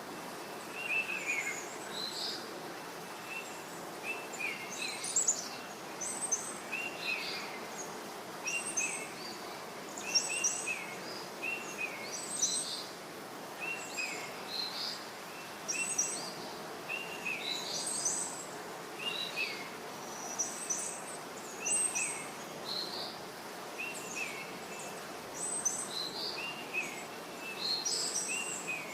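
Birds chirping, short high calls repeating about once or twice a second over a steady soft hiss of outdoor ambience.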